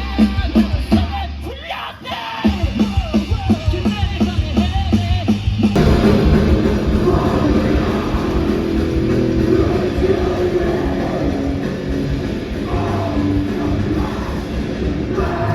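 Loud heavy rock band playing live. It opens with a run of evenly spaced chugging guitar and drum hits, and about six seconds in the full band comes crashing in, with singing.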